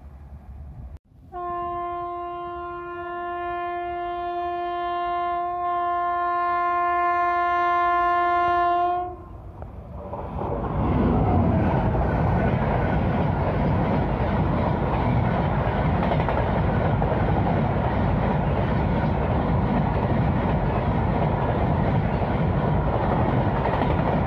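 Electric locomotive of an Indian Railways express train sounding one long, steady horn blast of about eight seconds as it closes in. Then the train passes close by, with a loud, steady rumble of coaches and wheels on the track.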